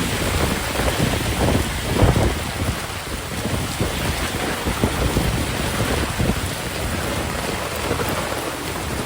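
Heavy rain pouring steadily, an even hiss of rainfall. A few brief low surges come in the first couple of seconds.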